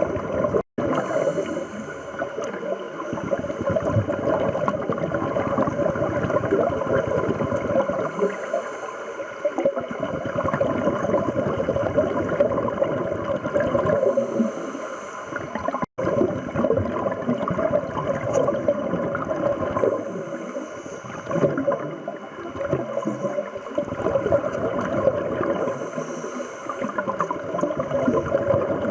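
Underwater sound of scuba divers breathing through regulators, with exhaled bubbles rushing and gurgling. A hissy burst comes about every six seconds.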